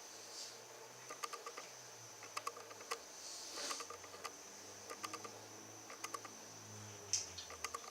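Faint sounds of people eating: scattered small clicks and soft rustles from chewing and handling the burritos, over a steady faint high-pitched whine.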